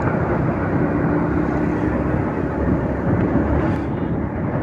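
Steady road noise heard from a moving motorcycle: wind rushing over the microphone with engine and traffic noise underneath.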